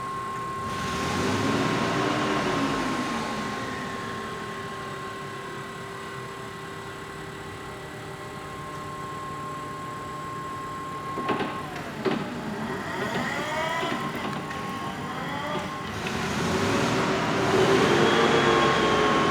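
Electric motors of a Raymond reach truck whining, rising and falling in pitch as they speed up and slow down. A steady high tone runs under them and stops about eleven seconds in, just as two sharp clicks sound.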